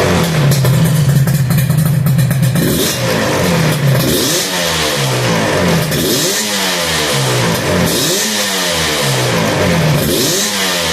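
Suzuki RG250γ two-stroke parallel-twin engine with an aftermarket muffler, idling steadily, then blipped four times, the pitch rising and falling back to idle each time.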